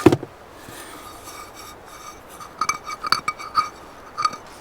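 Cookware being handled: a knock at the start, then a run of light clinks and taps, each with a short ring, about two and a half to three and a half seconds in, and one more clink near the end.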